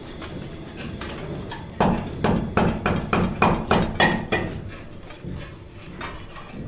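A quick run of about ten sharp knocks, some four a second, starting about two seconds in and stopping by about four and a half seconds.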